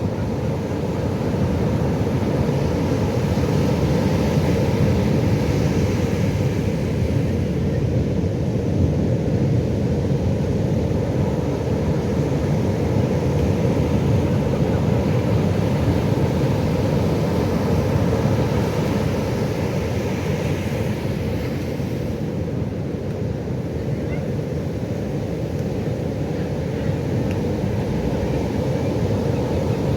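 Pacific Ocean surf: a continuous low rumble of breaking waves that swells gently a few times as waves wash in.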